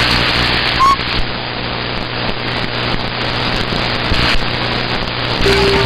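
CB radio receiver static: a steady hiss with a low hum under it, a short chirp about a second in, and a steady tone coming in near the end.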